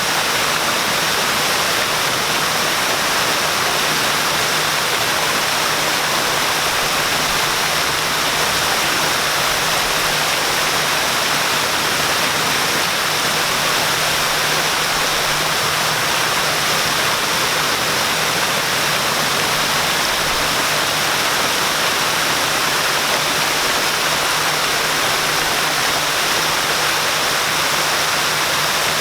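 Waterfall: water falling and splashing in a steady, even rush, with a faint, steady low hum underneath.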